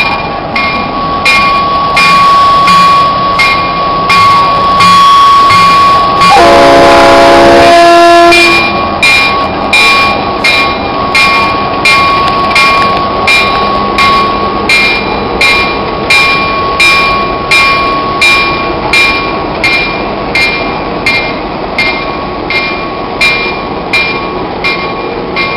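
A diesel-led excursion train with passenger cars passes close by, making a steady rhythmic beat about one and a half times a second with a thin high ring over it. About six seconds in, a chime horn blows loudly for about two seconds.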